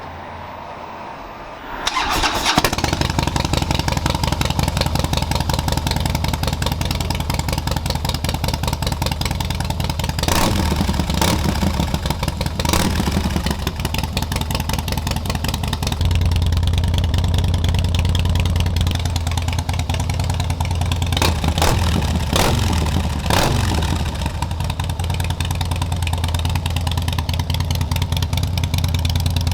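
Harley-Davidson Heritage V-twin with a stage 2 cam upgrade starting up about two seconds in, then idling. The throttle is blipped a few times around ten to thirteen seconds in and again around twenty-one to twenty-four seconds in.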